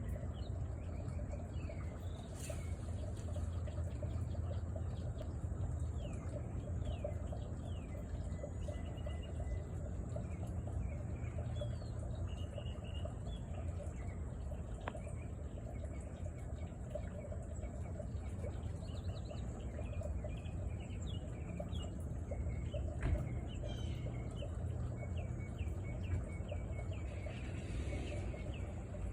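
Small birds chirping outdoors, many short downward-sliding calls repeated throughout, over a steady low background rumble.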